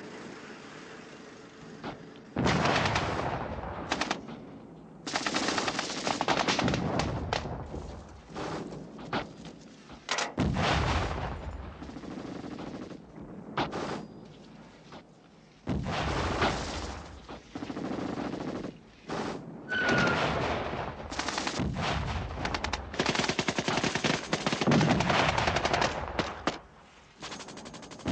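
Bursts of machine-gun and rifle fire, many shots in quick succession, in runs of one to three seconds separated by short lulls: a firefight.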